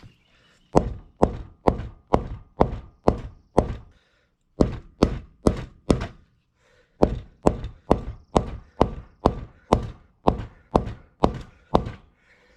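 Soft-faced mallet striking a wheel bearing to drive it into a mini bike rim's hub: a series of dull blows at about two a second, in three runs with short pauses between.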